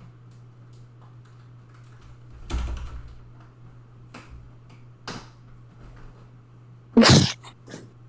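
Room noise: a steady low hum, a dull knock about two and a half seconds in, and a short, loud, sharp noise about a second before the end.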